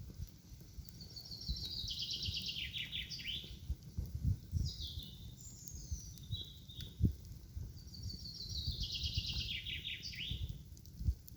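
A songbird singing two similar phrases, each a fast trill that falls in pitch over about two and a half seconds, the first starting about a second in and the second near the end, with a few short chirps in between. Low thumps and rumble run underneath.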